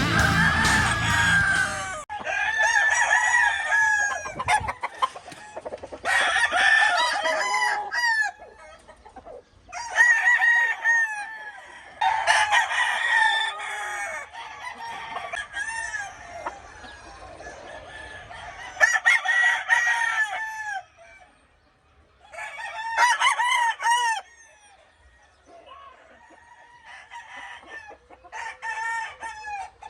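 Gamefowl roosters crowing again and again, a crow every few seconds, some overlapping, with clucking in the quieter gaps. Music fades out in the first two seconds.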